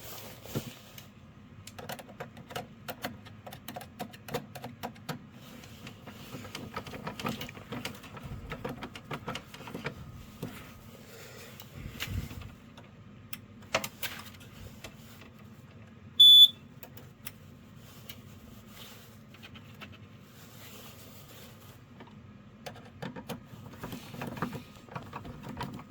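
Small clicks, taps and scrapes of a wire being stripped and landed in the screw terminals of a fire alarm control panel with hand tools. A single short, high electronic beep, the loudest sound, comes about 16 seconds in.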